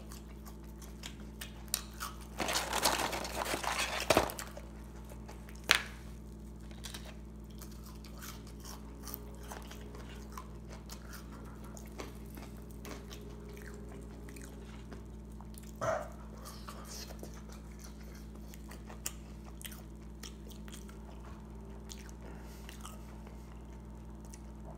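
A person chewing and biting crispy curly fries: scattered small crunches and mouth clicks, with a louder noisy stretch about three seconds in and a few sharper clicks later, over a steady low hum.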